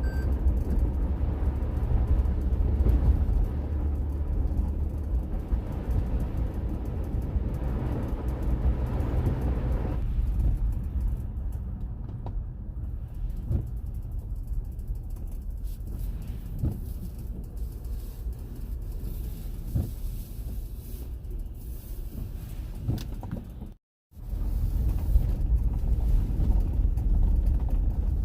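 Car driving on a snowy road: a steady low rumble of road and engine noise. The sound cuts out for an instant near the end.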